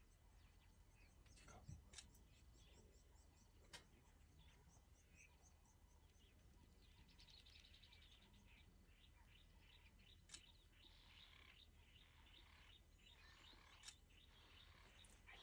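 Quiet bush ambience: faint bird chirps and trills, with a few brief sharp clicks.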